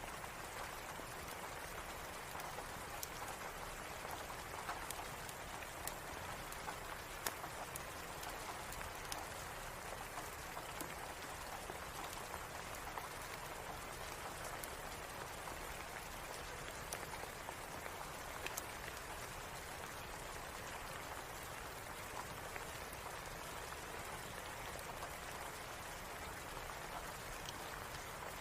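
Steady rain with scattered sharp ticks and pops.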